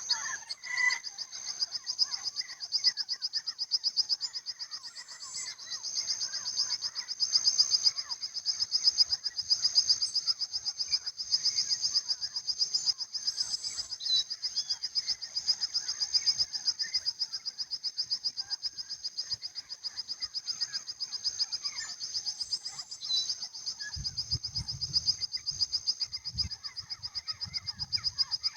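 Chorus of frogs calling, a continuous high, rapidly pulsing trill with scattered lower calls beneath it. A low rumble comes in near the end.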